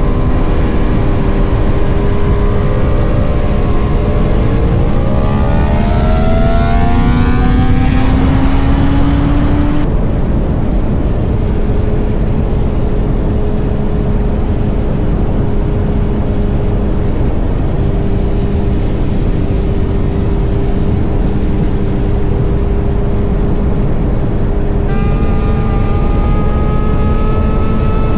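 Motorcycle engines running at highway speed under heavy wind rush. Engine pitch rises as the bike accelerates over the first several seconds, then holds steady, and another higher-pitched engine joins near the end.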